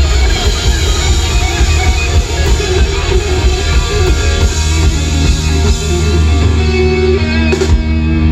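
Rock band playing live: electric guitar over heavy bass and drums.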